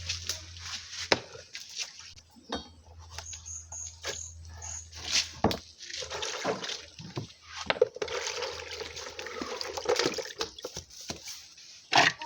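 Cooking and food-handling sounds: scattered knocks and clinks of utensils against a pot, with water sloshing and pouring. A low hum runs under the first half.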